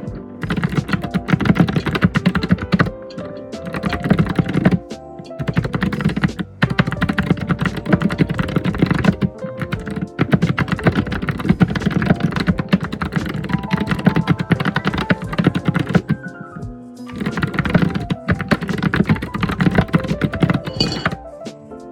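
Computer keyboard typing: fast, dense runs of keystrokes with a few short pauses, over background music. The typing stops shortly before the end, leaving only the music.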